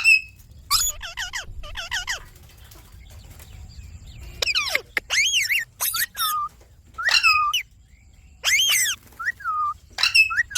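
Indian ringneck parrot calling: a string of short, shrill calls with a wavering pitch, coming in quick groups with a pause of about two seconds after the first few.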